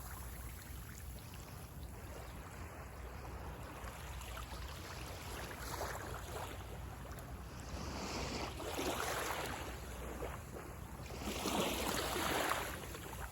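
Small waves breaking and washing up on a sandy beach, swelling in three surges about six, eight and eleven seconds in, the last the loudest, over a steady low rumble of wind on the microphone.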